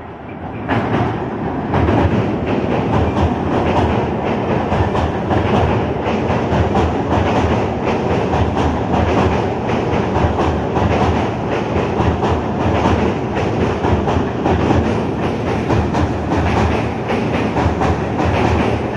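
Passenger train coaches running past close by, their wheels clattering over the track in a fast, dense, steady rhythm. The noise swells sharply within the first couple of seconds as the train reaches the microphone, then stays loud.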